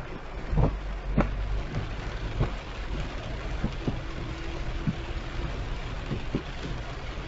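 Heavy rain hitting a moving car, with many separate loud drop impacts over the steady low rumble of the car on the wet road.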